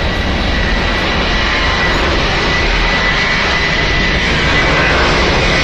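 Jet airliner's engines at takeoff power: a loud, steady jet noise with a high, steady whine over it, growing slightly louder near the end.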